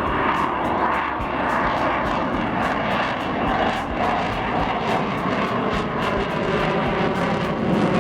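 Engine noise of a fixed-wing display aircraft in flight, loud and fairly steady.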